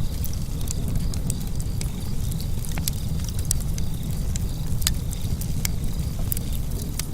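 Wood fire burning in a fireplace: a steady low rumble of flames under frequent sharp crackles and pops, scattered at irregular moments.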